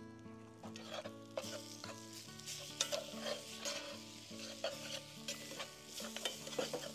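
A big spoon stirring noodles in a pot, with irregular scrapes and clicks over a steady sizzling of food cooking on the stove.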